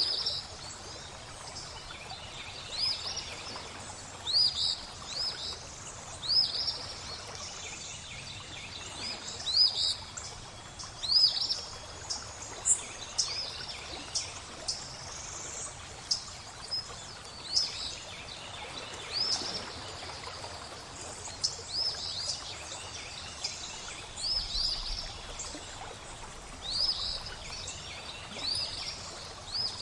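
Songbirds chirping over steadily flowing water: short, upturned high chirps repeat every second or two above a constant rushing trickle.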